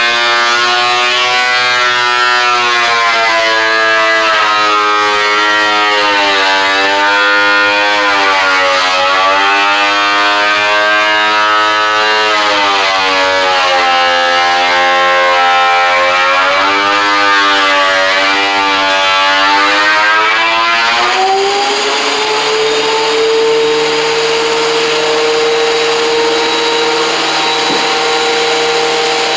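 Woodworking power tool's electric motor cutting through a board. Its whine is pulled down and wavers under the load, and about 21 seconds in the cut ends and the motor rises back to a steady, higher whine running free.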